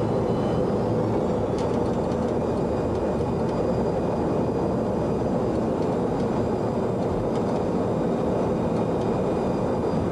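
Steady cabin noise on a Boeing 737-200 flight deck: an even rumble and hiss from the engines and airflow, with a few faint high whines, as the jet rolls on the ground after landing.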